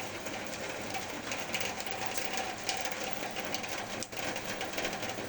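Steady rain falling, with many small drops pattering and ticking on nearby surfaces.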